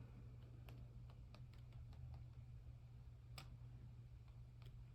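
Near silence over a low steady hum, with a few faint scattered taps from a small sponge dabbing paint through a stencil onto paper.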